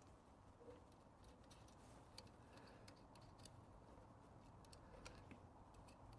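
Near silence, with faint, scattered small clicks and ticks.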